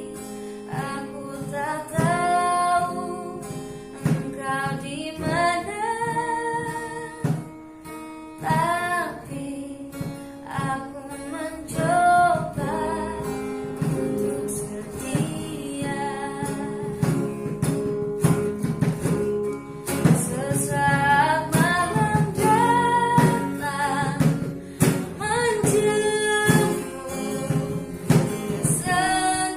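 A woman singing a song to guitar accompaniment.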